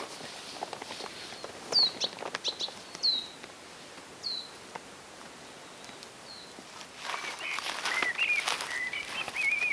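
Wild songbirds calling in woodland: a short falling chirp repeats every second or two, and from about seven seconds in a second bird's warbling song joins. A few sharp clicks sound in the first few seconds.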